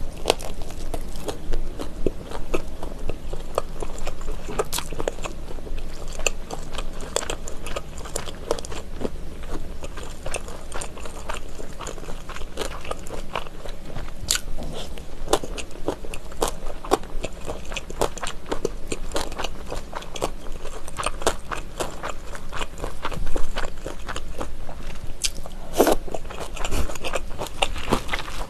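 Close-miked chewing of mayak gimbap, small seaweed-wrapped rice rolls: many small irregular clicks and smacks of mouth and food.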